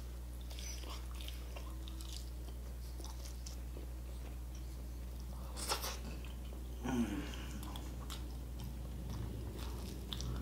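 Close-miked eating sounds of a man chewing roast chicken (lechon manok) with glazed skin: soft wet chewing and faint crunches, with a couple of louder short mouth noises about six and seven seconds in, over a steady low hum.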